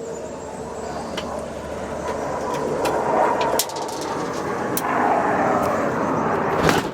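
An airplane flying overhead, its engine drone growing steadily louder, with a few sharp clicks over it.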